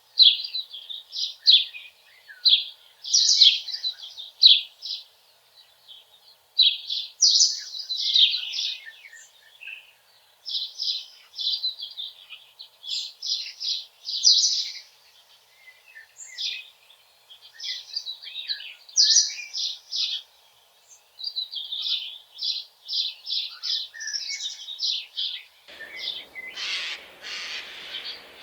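Small songbirds singing busily, quick high twittering phrases one after another. Near the end, harsh rasping screeches break in, typical of a Eurasian jay.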